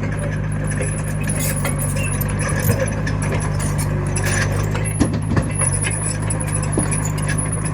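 Komatsu mini bulldozer's diesel engine running steadily, with a few sharp metallic clanks.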